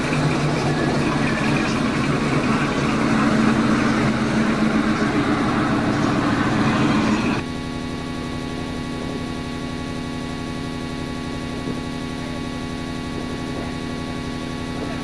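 Car engines running: a louder, rougher engine sound for about the first seven seconds, then an abrupt change to a quieter, steady idle hum.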